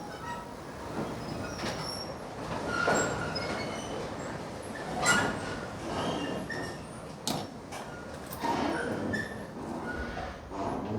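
Intermittent metal clanks and short metallic squeaks from hands-on work on a truck bed, with sharp knocks about 3, 5 and 7 seconds in.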